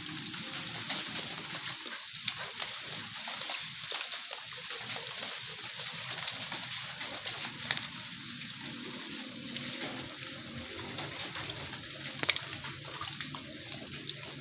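Steady rain falling, with scattered sharp drips and splashes.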